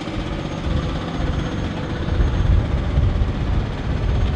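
Low, steady rumble of a heavy vehicle's engine idling.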